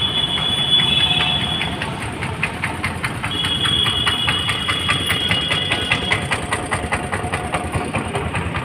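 Car engine idling, with a high whine that comes and goes and a fast, even ticking.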